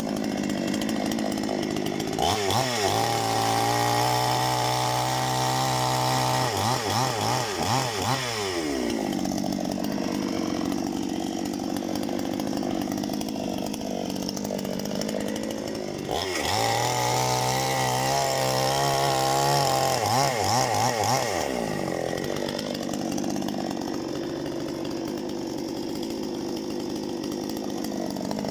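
Parma BP-058 two-stroke petrol chainsaw revved to full throttle twice, each time for about five or six seconds, cutting firewood, and dropping back to a lower speed between the cuts.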